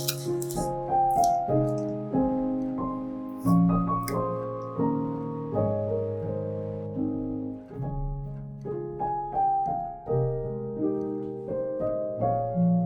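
Gentle background piano music: soft notes and chords struck a few times a second, each left to ring.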